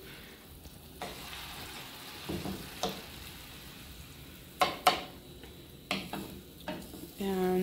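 Diced tomatoes sizzling in a hot oiled nonstick frying pan while a wooden spoon stirs and spreads them, with a few sharp knocks of the spoon on the pan, the loudest about five seconds in.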